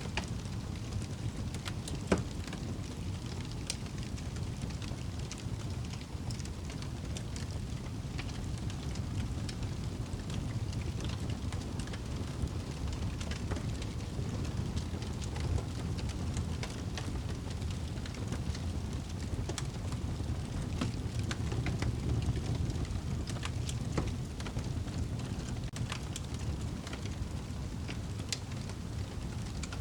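Wood fire burning in a fireplace: a steady low rumble with frequent small crackles and pops, one sharp pop about two seconds in.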